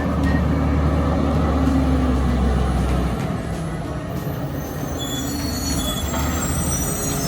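Republic Services side-loader garbage truck's engine running, its low rumble easing off about three seconds in. High thin brake squeals come in over the last couple of seconds as the truck slows.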